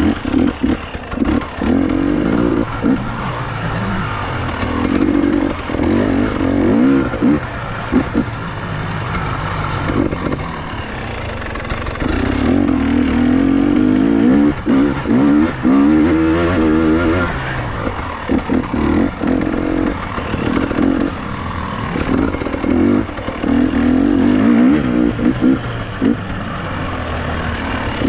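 KTM two-stroke enduro motorcycle engine riding off-road, the throttle opened and closed again and again. The revs rise and fall, with short drops each time the throttle is rolled off.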